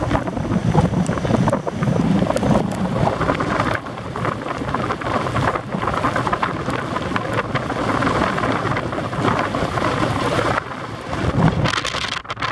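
Squall wind gusting hard, buffeting the microphone with a rumbling, surging rush of noise that rises and falls from gust to gust.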